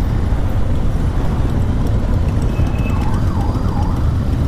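A police escort siren rising and falling twice about three seconds in, over steady motorcycle engine and wind rumble on the microphone.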